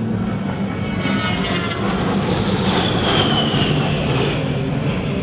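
A-10 Thunderbolt II jet with twin TF34 turbofan engines passing by, a loud steady jet roar with a high turbine whine that falls in pitch about three seconds in as it goes past.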